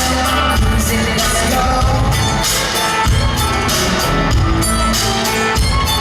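Live country-pop band playing amplified, with singing over a full band and a steady drum beat.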